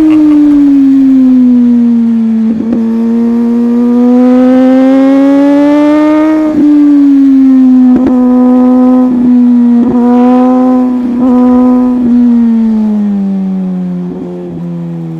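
A superbike engine running hard at high revs: its pitch climbs steadily for a few seconds, holds, then drops away near the end as the throttle eases. Short sharp knocks come about once a second through the middle.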